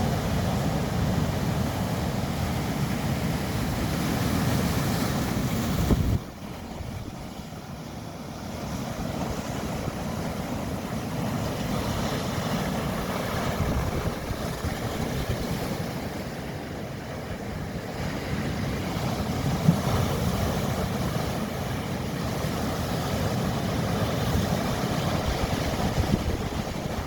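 Sea waves washing, with wind rumbling on the microphone. The sound drops suddenly about six seconds in, then slowly builds again.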